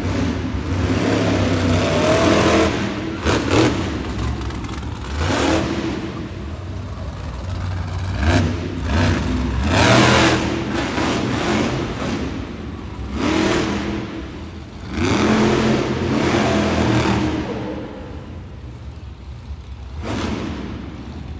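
Monster truck engine revving hard in repeated bursts, its pitch sweeping up and falling back several times, with a few sharp bangs.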